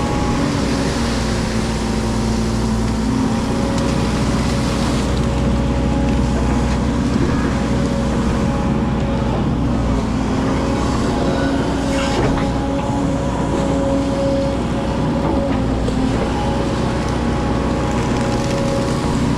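Excavator's diesel engine running steadily, with a single short knock about twelve seconds in.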